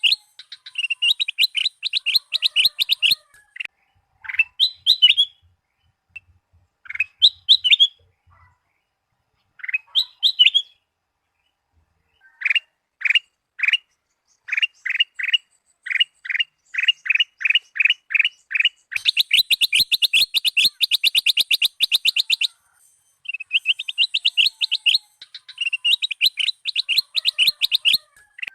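Kutilang emas bulbul singing: fast trills of clipped notes, a few separate slurred whistled phrases, then a run of single notes a few per second leading into a long dense trill. The song comes in bursts with short pauses between them.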